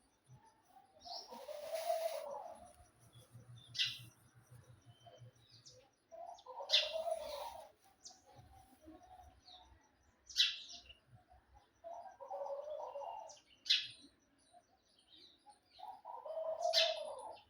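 Birds calling: a lower call repeats about four times, with short, sharp, high chirps between the calls.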